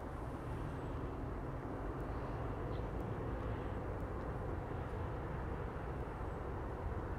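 Steady low rumble of an approaching freight train hauled by an electric locomotive, heard from a distance.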